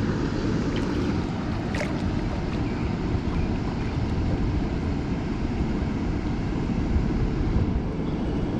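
Steady rush of water pouring through a river spillway.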